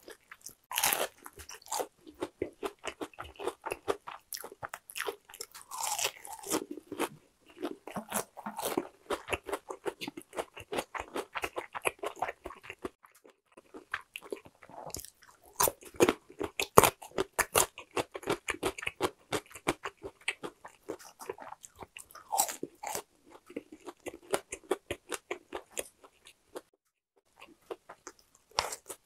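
Close-miked crunching and chewing of crispy-coated boneless fried chicken: rapid crisp bites and chews, one after another. Around the middle a pickled radish cube is bitten with louder crunches.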